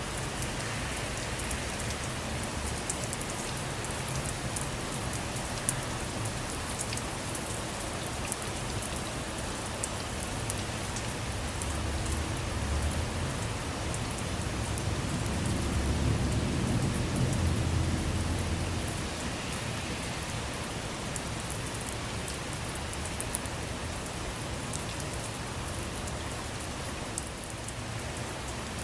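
Steady rain falling on a car, with many individual drops ticking. Near the middle a low rumble of distant thunder swells for several seconds and then fades.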